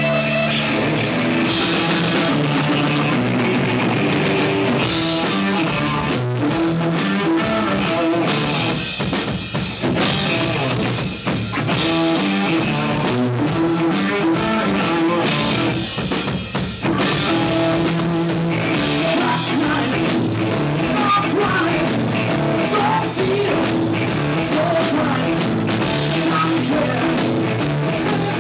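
Rock music from a band: drum kit and guitar playing continuously.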